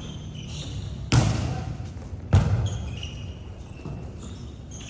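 A volleyball being struck twice, two sharp smacks about a second and a quarter apart, each echoing in a gym hall.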